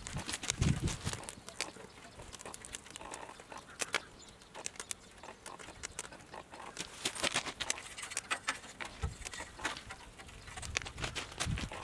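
Firewood burning in a double-combustion fire pit, crackling and popping in irregular sharp snaps. A low rumble comes about a second in and again near the end.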